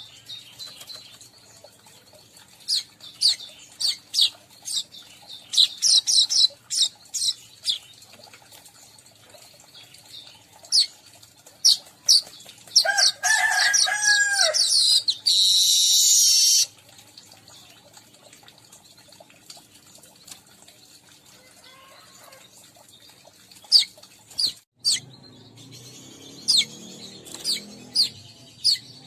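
Weaverbirds (manyar) chirping and chattering: many short, sharp high chips and quick runs of notes. About halfway through comes a loud, dense chattering phrase that ends in a hissy buzz lasting over a second. The chips pick up again near the end.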